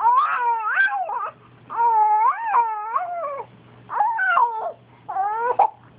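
A dog howling and whining in four loud, wavering calls that rise and fall in pitch, with short pauses between them. The owner takes the noise for the dog getting mad.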